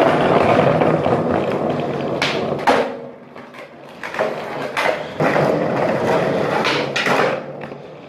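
Skateboard wheels rolling on pavement, with a handful of sharp clacks as the board strikes the ground during tricks, about five over the few seconds.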